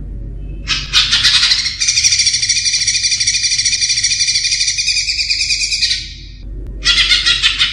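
Cucak ijo (green leafbird) singing a long, fast, rapidly trilling phrase. After a short pause a second phrase begins near the end.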